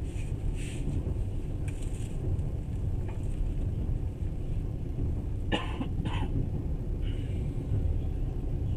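Moving passenger train heard from on board: a steady low rumble of the running train. A few brief sharp noises break in, the loudest two close together a little past the middle.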